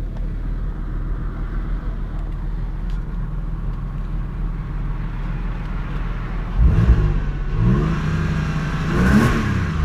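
Porsche Carrera 4's flat-six engine idling steadily, then revved with the throttle blipped a few times in the last three seconds, the pitch rising and falling back.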